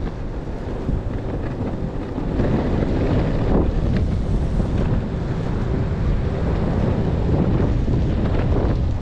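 Wind rushing over and buffeting the action camera's microphone, a steady low rumble that gets a little louder about two and a half seconds in.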